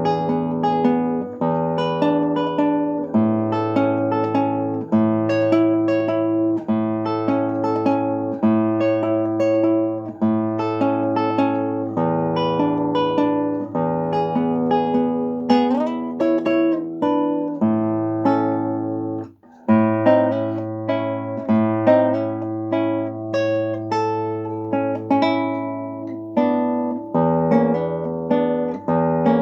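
Solo acoustic guitar playing a fingerpicked piece: plucked melody notes over held bass notes, with one sliding note about halfway and a brief pause about two-thirds of the way through.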